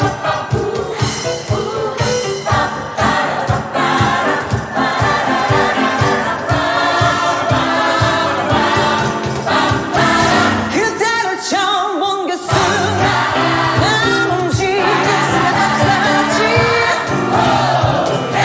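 Gospel choir singing a soul medley over a steady beat. About eleven seconds in the beat drops out briefly while voices sing wavering runs, then the full choir and beat come back in.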